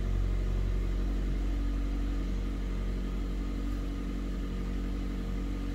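2018 Mazda CX-5's 2.5-litre Skyactiv-G four-cylinder petrol engine idling steadily just after starting, still on its raised cold-start idle, heard from inside the cabin.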